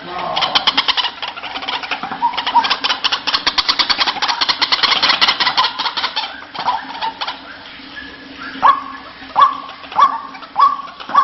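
White-breasted waterhen (ruak-ruak) calling: a fast run of rapidly repeated notes, then from about eight seconds in, a series of upward-swooping calls about two-thirds of a second apart.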